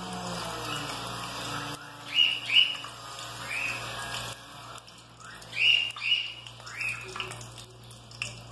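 A bird chirping about six times in short rising calls, mostly in pairs, over a faint steady hiss.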